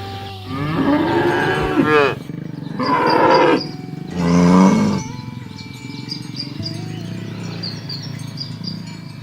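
Cattle mooing: three loud moos in quick succession over the first five seconds or so, then only soft background music.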